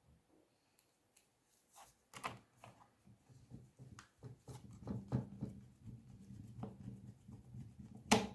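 Light, scattered clicks, taps and scrapes of hands handling laptop parts and a small screwdriver while the SSD is screwed into its bay. The sounds begin about two seconds in and grow busier toward the end.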